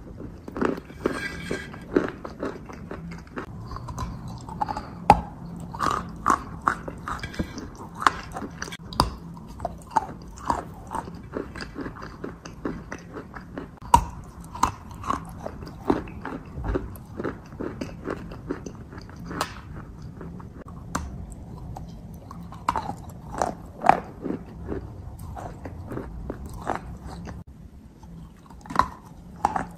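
Close-miked chewing and biting of a soft, sticky grey mass: irregular sharp mouth clicks and smacks, some much louder than the rest, with an occasional crunch.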